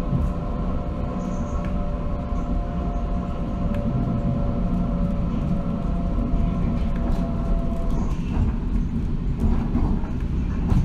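Waratah double-deck electric train on the move, heard from inside the carriage: a steady rumble of wheels on track under a whine of several steady tones from the traction motors. The whine dies away about eight seconds in, leaving the running rumble.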